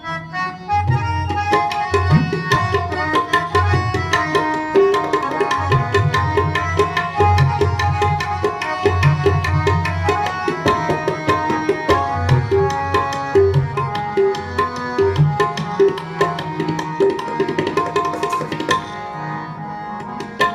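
Tabla playing a fast, dense solo passage of drum strokes, with deep bass-drum notes, over held melody notes on a harmonium: an instrumental interlude between sung lines of Sikh kirtan.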